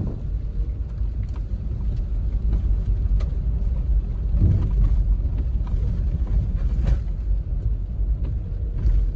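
2018 Toyota 4Runner TRD Off-Road's V6 engine and drivetrain running on a rough off-road trail: a steady low rumble with scattered light clicks and knocks.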